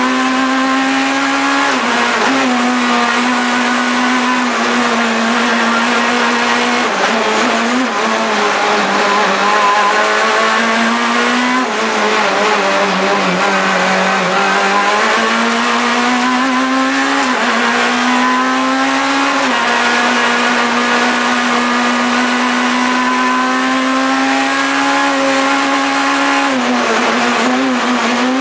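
Proton Super 2000 rally car's two-litre four-cylinder engine running hard at high revs, its pitch holding high, then dropping and climbing again several times as it shifts and brakes for corners.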